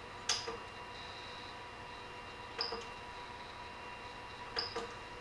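3D printer giving three sharp static-like crackling clicks about two seconds apart, each with a brief high ring, over a faint steady electronic hum. It is heard as a sign that something is wrong with the printer.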